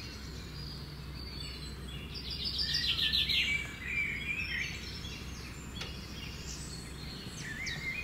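Rainforest birds calling, with a fast run of high chirping notes about two seconds in and scattered chirps around it, over a low steady hum.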